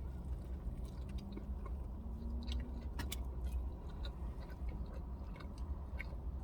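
Close-up chewing of a mouthful of burger: soft, wet mouth clicks scattered through, over a steady low hum.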